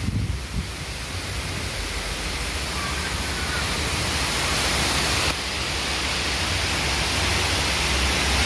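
Strong wind blowing hard: a steady rushing noise with low buffeting rumble on the microphone.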